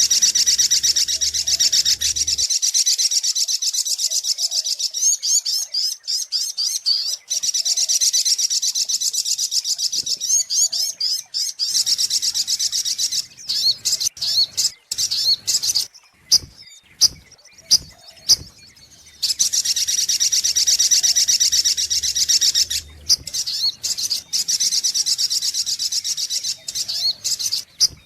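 Sogok ontong (little spiderhunter) song played as a bird-trapping lure call: long, very rapid high-pitched trills in bursts of a few seconds, with sharp single chips and short phrases between them.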